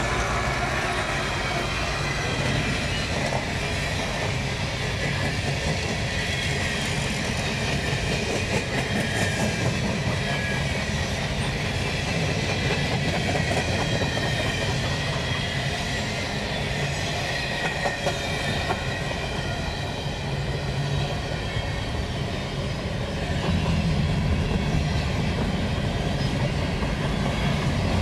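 An empty Canadian Pacific grain train rolling past close by: a diesel locomotive passing at the start, then a steady run of empty covered hopper cars, their wheels rumbling and clacking on the rails. It gets a little louder a few seconds before the end.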